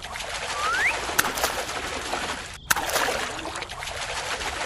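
Steady rush of running water with one short rising bird whistle about half a second in, and a sharp click about a second in and another near the middle.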